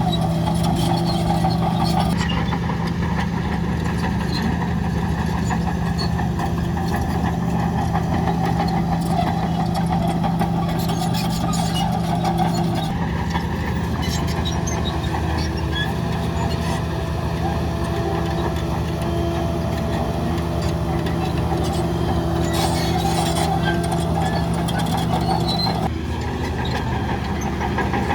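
Heavy construction machine's diesel engine running steadily, its note shifting a few times.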